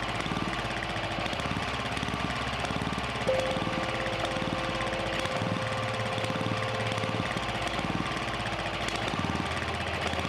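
Robin EY-series single-cylinder generator engine running steadily on a cheap aftermarket replacement carburetor, with a thin steady whine for a few seconds in the middle.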